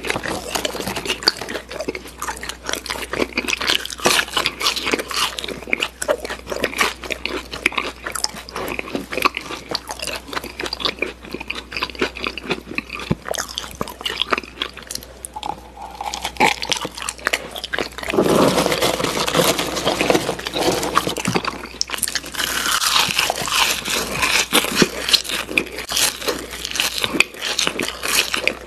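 French fries being chewed close to the microphone in ASMR style: a dense, continuous run of crunchy bites and wet mouth clicks, growing louder and fuller about two-thirds of the way through.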